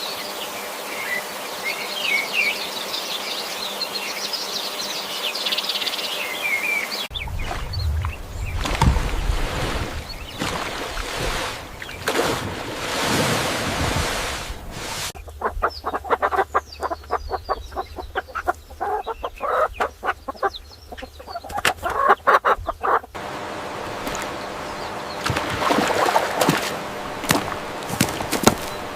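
Birds chirping with short high calls for the first several seconds. The sound then cuts abruptly to other outdoor clips: rustling, and a fast, dense run of sharp clicks and taps in the middle.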